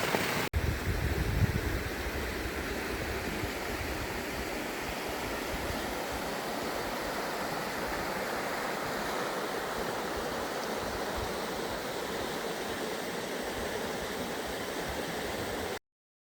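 Heavy sleet and rain falling, a steady hiss, with a brief low rumble of wind on the microphone about a second in. The sound cuts off abruptly near the end.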